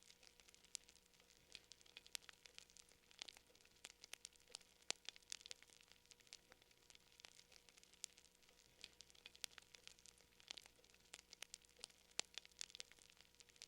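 Fire crackling faintly: irregular quick snaps and pops, several a second, over a faint steady hum.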